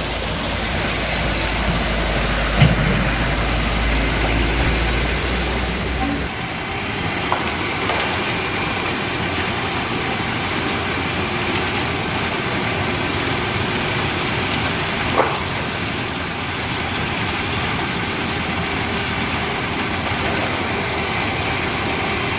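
Concrete mixer truck running at a concrete road pour, a steady engine-and-machinery noise. A deep rumble drops away about six seconds in, and there are a few sharp knocks.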